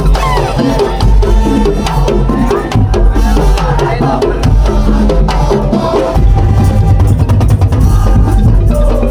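Madurese tong-tong ensemble playing: wooden slit drums (kentongan) and drums in a dense, steady rhythm with pitched melodic lines over them, the bass beat growing heavier about six seconds in.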